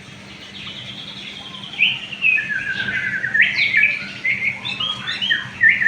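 A songbird singing: a quick, varied run of chirps and rattling trills that gets louder about two seconds in.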